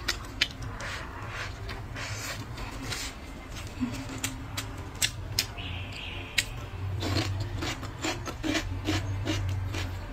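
Close-up eating sounds of braised pig's trotter being bitten and chewed, with many sharp, irregular wet smacks and clicks from the mouth.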